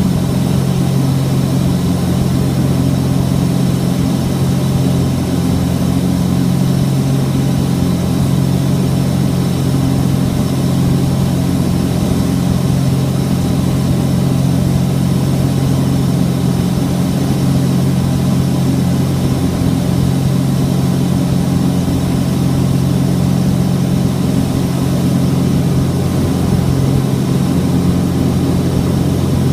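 Cessna 421's twin piston engines and propellers running steadily at constant power, an even drone that does not change.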